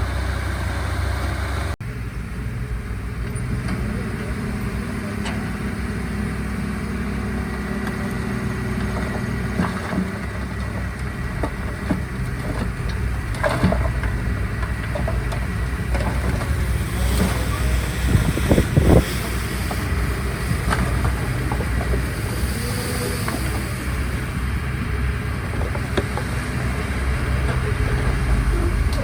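Diesel engines of heavy earthmoving machinery running steadily, with scattered metallic knocks and clanks; the loudest cluster of clanks comes about two-thirds of the way through.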